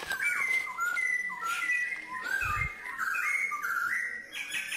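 A forest bird singing a whistled phrase of a few notes stepping up and down, repeated about twice a second, with a faster run of higher notes near the end. A single low thud about halfway through.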